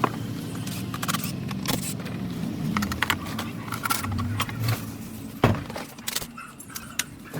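Small metal parts clinking and knocking as they are handled, with a louder knock about five and a half seconds in, over a low hum.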